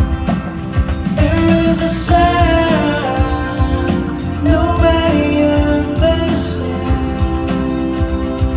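Live band performance of a pop ballad with a male lead vocal over sustained keys or guitar and a steady drum beat. The singing line comes in about a second in and continues for several seconds.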